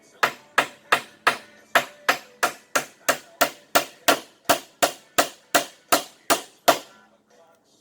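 Hammer driving a nail into a wooden board: a steady run of sharp strikes, about three a second, that stops near the end.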